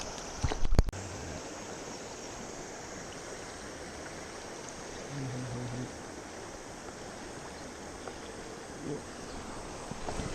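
Steady rush of river water flowing over a riffle. A few sharp knocks in the first second are the loudest sound, and a short low hum comes around the middle.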